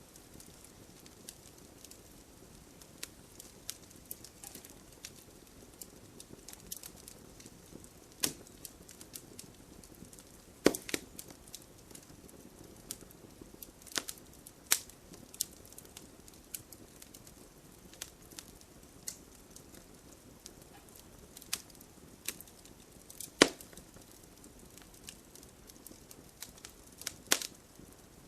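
Wood fire crackling in a fireplace: irregular sharp pops and snaps over a soft hiss, with a handful of much louder pops scattered through.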